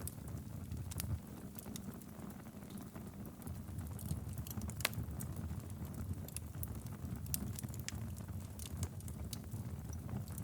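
Wood fire burning in a fireplace: a steady low rumble of the flames with scattered sharp crackles and pops, one louder pop about halfway through.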